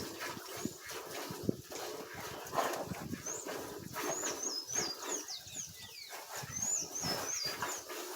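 Dog barking now and then in a farmyard, with bursts of short high chirps from birds about halfway through and again near the end.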